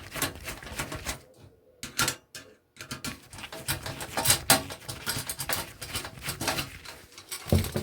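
Irregular clicks, scrapes and snaps of a small cooling fan being taken apart by hand to get its little DC motor out.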